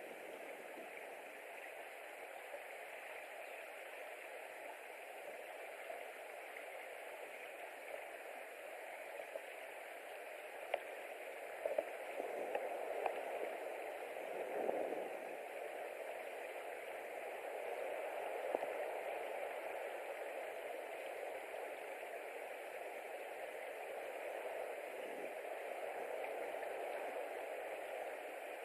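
Steady rushing noise from the nest camera's outdoor microphone, with a few faint clicks and taps about halfway through.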